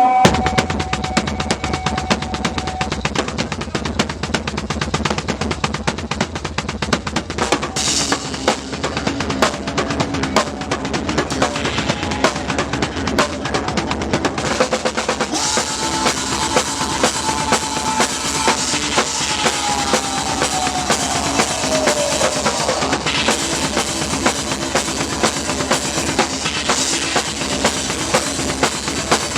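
Live metal band playing, heard close to the drum kit: dense, fast kick-drum and snare strokes with cymbals running under the band. About twenty seconds in, a held high note slides down in pitch.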